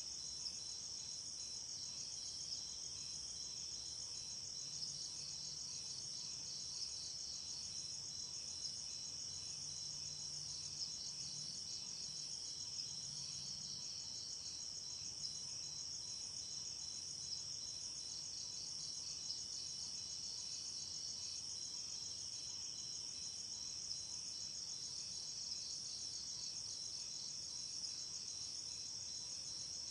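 Night insects, mainly crickets, chirping in a dense, steady high-pitched chorus, with a second, fainter pulsing trill a little lower in pitch.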